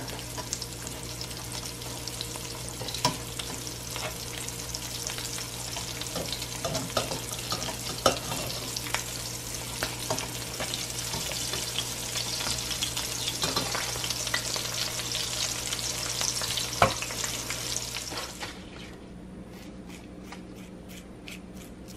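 Corn-tortilla potato tacos shallow-frying in hot oil in a stainless steel pan: a dense, steady sizzle with sharp knocks of metal tongs against the pan, the loudest about 17 seconds in. The sizzle cuts off abruptly about 18 seconds in, leaving a much quieter background with a few faint ticks.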